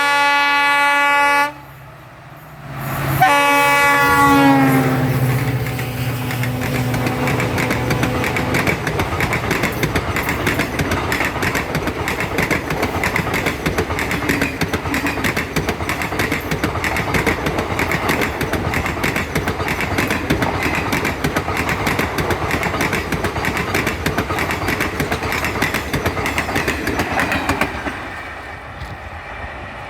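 Diesel locomotive horn sounding, breaking off about a second and a half in, then a second blast a couple of seconds later whose pitch falls as the locomotive passes. The train's wagons follow, rolling by with a steady rhythmic clatter of wheels over rail joints, which drops away near the end.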